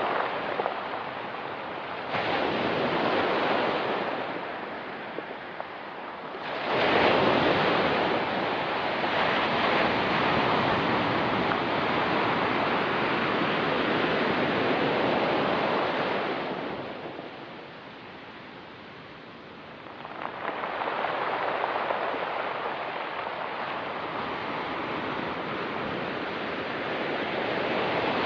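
Ocean surf: waves breaking and washing up the shore in swells, with a big wave coming in about six seconds in and rushing on for some ten seconds, a lull, then the next wave arriving about twenty seconds in.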